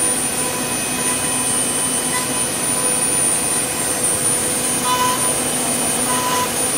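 CNC wood lathe running a finishing pass: a high-speed router spindle whining steadily while its 6 mm ball-nose bit cuts the turning wood, a continuous even noise with a high steady tone on top.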